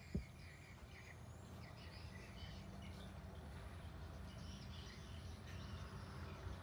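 Faint bird chirps over a steady low background hum, with one short thump just after the start.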